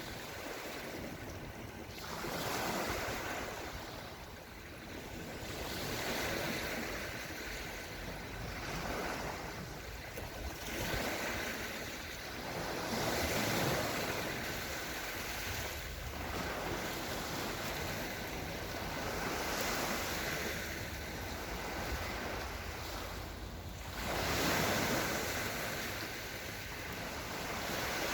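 Small sea waves washing gently onto the shore, the wash swelling and falling back every few seconds.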